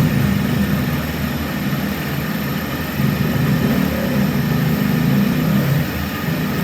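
Workshop machinery running steadily with a low, rough hum.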